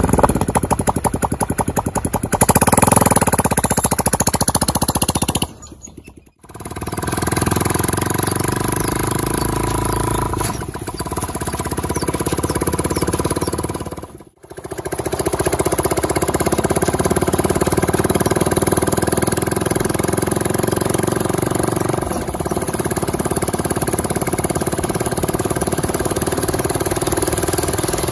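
Motorcycle engine of a homemade mini jeep running as it is driven, louder over the first few seconds, then holding a steady note; the sound cuts out briefly twice, about six and fourteen seconds in.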